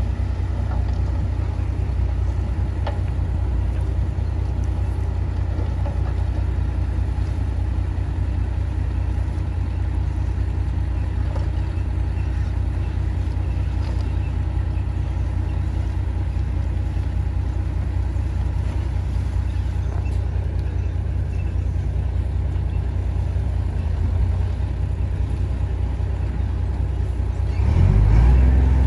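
Heavy diesel engine of earth-moving machinery running steadily under load, with a louder, deeper surge near the end as it is revved.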